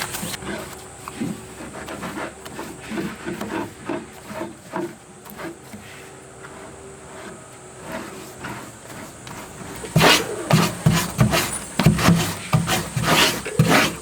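Animal calls, loud and repeated from about ten seconds in, after a stretch of faint clicks and rustling.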